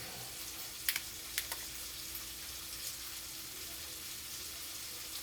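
Steady sizzling hiss of T-bone steaks frying in a pan, with two or three small clicks about a second in.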